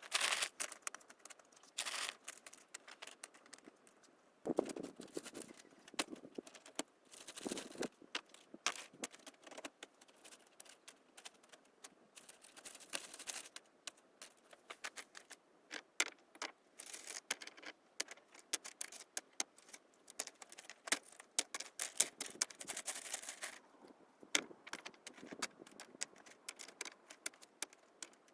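Irregular clicks, clinks and scrapes of hard objects being handled, in short bursts with brief quiet gaps between them.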